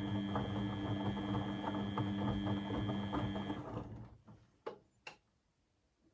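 Beko WMB 71643 PTE washing machine running with a steady hum and busy clatter, which stops about three and a half seconds in, followed by two sharp clicks.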